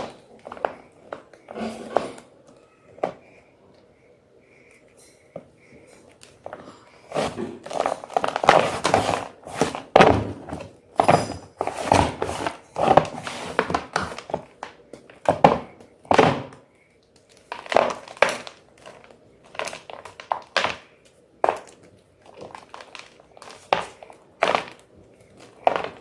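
White gym chalk being crunched: irregular dry crunches and crumbles. They are sparse at first and pause for a few seconds, then come as a dense run, and thin out to separate crunches near the end.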